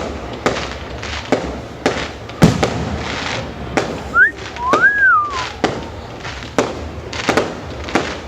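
Fireworks going off: about a dozen sharp bangs at irregular intervals over a crackling haze, the loudest about two and a half seconds in. About halfway through a brief whistle rises and falls in pitch.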